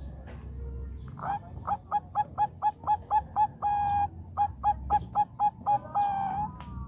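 Zebra dove (Bangkok perkutut) singing: a run of quick, even cooing notes about five a second, broken by a longer held note in the middle, then a second run ending on another drawn-out note.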